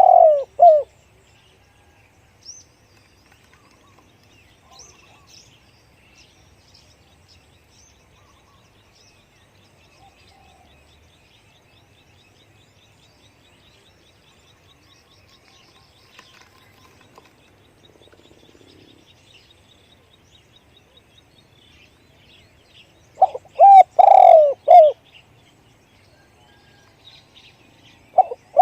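Spotted dove cooing in phrases of several deep coo notes: one phrase right at the start, another about 23 seconds in, and a third starting just at the end. Faint chirps of small birds come in between.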